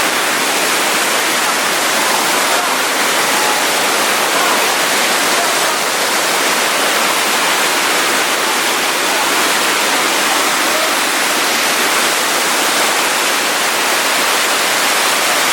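Waterfall close by: a loud, steady rush of falling water with no change in level.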